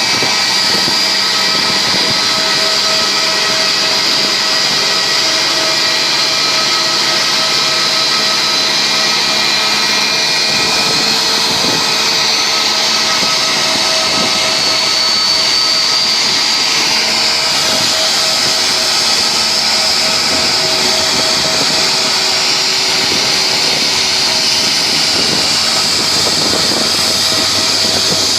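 Jet aircraft turbine running steadily: a loud, continuous rushing noise with a constant high whine and a lower steady hum.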